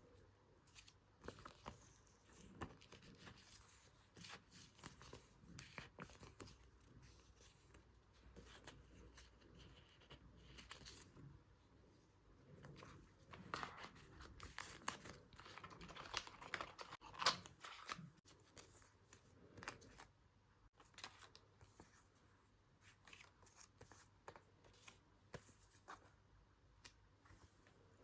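Quiet close-up paper crafting sounds: paper and sticker sheets torn, peeled and rustled, with scattered short scratches and light clicks, busiest around the middle.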